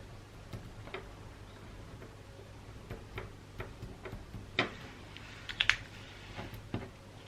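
Light, scattered taps and clicks from handling gift-wrapping materials, with two louder brief rustles a little past halfway.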